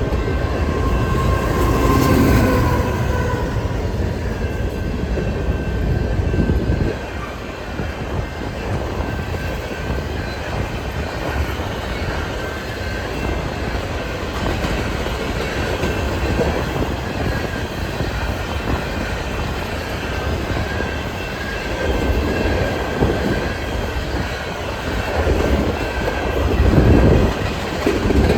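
Freight train of empty grain hopper cars rolling past: a steady rumble and clatter of steel wheels on rail, with thin steady wheel squeal over it. The sound grows louder again near the end.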